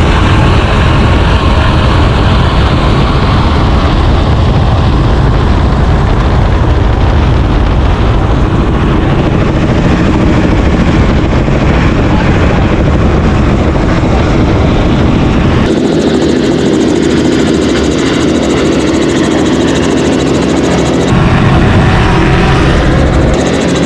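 Loud, steady engine noise from a high-performance powerboat run. The sound changes abruptly about two-thirds of the way through and again near the end, where the deep low end drops away and a mid-pitched engine note comes forward.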